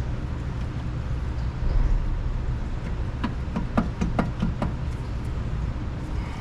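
Wrench working loose a crusty 10 mm brake caliper bleeder screw: a dull thump about two seconds in, then a quick run of about seven clicks, some five a second, over a steady low background hum.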